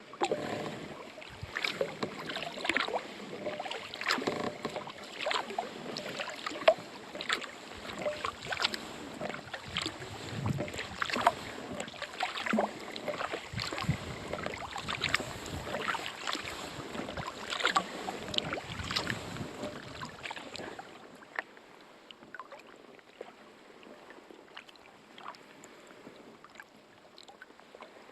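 Kayak paddle strokes in lake water: repeated irregular splashes and drips. About 21 seconds in the strokes stop, leaving only fainter, sparse splashes and drips.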